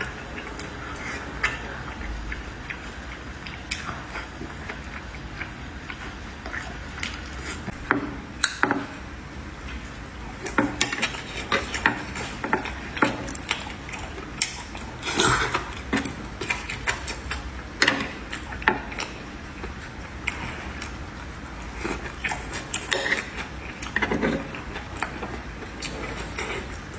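Tableware clinking and clicking now and then, irregular light knocks of chopsticks and utensils on plates, over a steady low background hum.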